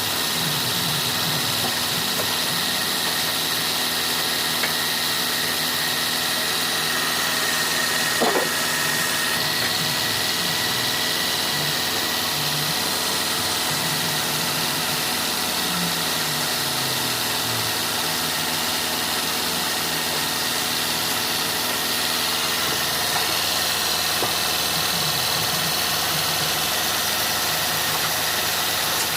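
Sawmill machinery running steadily: an engine-driven saw with a constant mechanical noise and a faint steady high whine over it.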